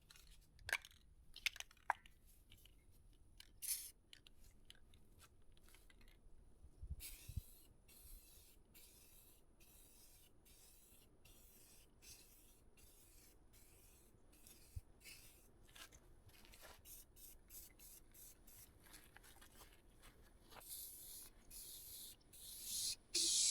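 Aerosol spray-paint can spraying in several short hissing bursts near the end, after a stretch of faint scattered clicks and rustles while the part-used can is handled.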